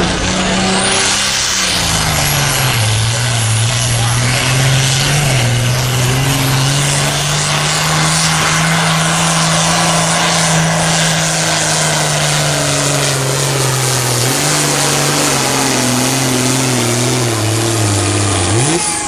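Competition pulling tractor's engine running flat out under load. Its pitch drops about two seconds in as the load comes on, then holds low and wavers, and climbs sharply near the end.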